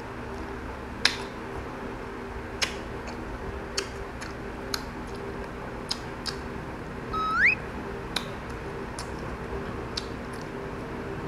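Eating crisp unripe green mango slices: a scatter of sharp crunches and mouth clicks a second or two apart, over a steady low hum. About seven seconds in there is a short rising squeak.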